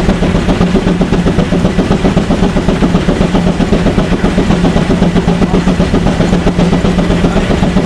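Vintage steam tractor running under load on a horsepower test, with a steady rhythmic beat of about five or six a second over a constant low hum.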